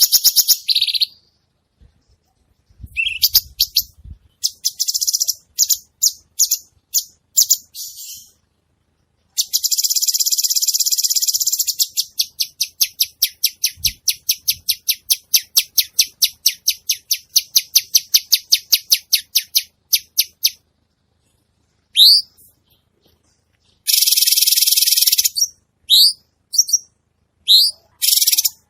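Cucak cungkok songbird singing: very high, fast runs of repeated chattering notes and long buzzy trills, broken by short pauses. In the last few seconds it gives short upward-sliding whistled notes.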